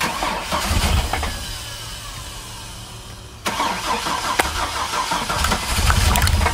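Chevy S10 pickup engine cranked by the starter and firing, in two goes: it catches suddenly, fades after a couple of seconds, then starts again about three and a half seconds in and runs louder. The engine is being run to destruction after losing its oil pressure.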